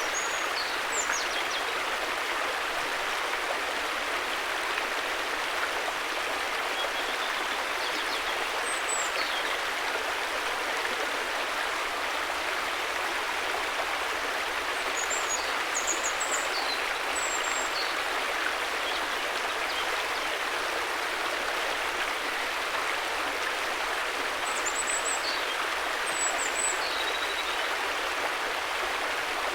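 River water flowing in a steady rush, with a few faint high chirps in short clusters near the start, about halfway through and near the end.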